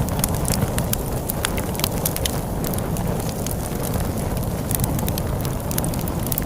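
Log fire crackling, with many sharp irregular pops and snaps over a steady low rumble of storm wind.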